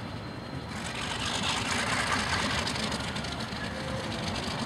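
ALCO diesel locomotives running in a rail yard, a steady engine rumble, with a broad rushing hiss that comes in about a second in and carries on.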